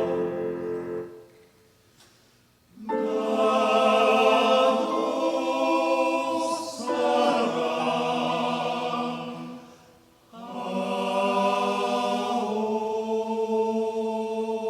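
Church choir singing slow, held chords as background music. A phrase fades out in the first second, a pause of about a second and a half follows, and the choir comes back in with long sustained chords, breaking off briefly about ten seconds in before the next chord.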